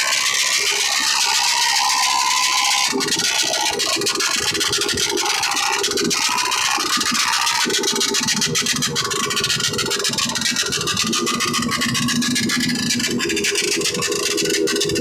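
A vehicle engine running, with a loud steady hiss and rattle over it.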